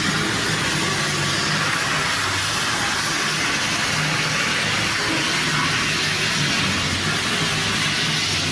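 Heavy machinery running steadily: a low engine drone under a loud, even hiss.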